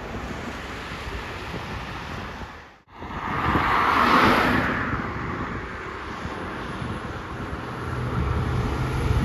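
Roadside traffic noise, cut off by a brief dropout about three seconds in, after which a vehicle passes close by with a rush of tyre and engine noise that swells and fades over about two seconds. Near the end a low, steady engine hum builds as another vehicle approaches.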